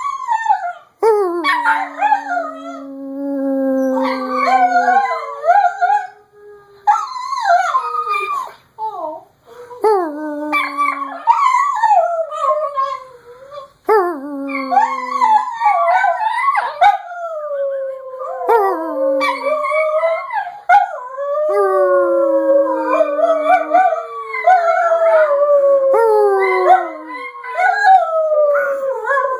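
Two dogs howling together, long pitched howls that overlap and mostly slide down in pitch, with brief breaks between them.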